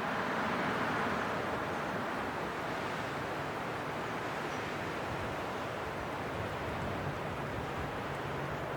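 Steady winter wind blowing, an even rushing noise that swells slightly in the first couple of seconds and then holds level.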